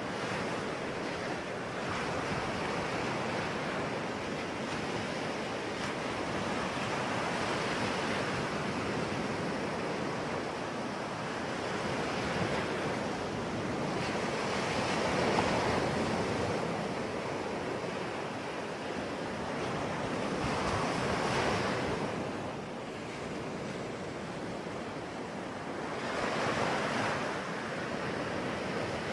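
Sea waves breaking on a shore, a steady wash of surf that swells every few seconds, with some wind noise.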